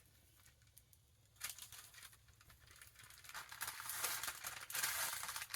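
Paper rustling and crinkling as a book's pages and binding are handled and pressed into place, with small clicks. It starts about a second and a half in and grows louder toward the end.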